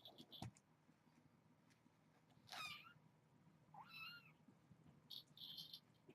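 Two faint, short kitten meows about a second and a half apart, each with a pitch that bends, followed by a brief soft rustle.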